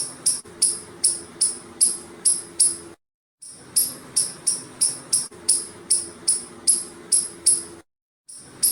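Squirrel calling with a fast series of sharp, high-pitched chirps, about three a second, in runs broken by two short silences.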